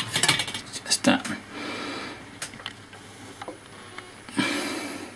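Small laptop parts being handled during a teardown: sharp clicks and knocks of plastic and metal pieces, several in the first second and a half and a few more later, with a short hissing noise near the end.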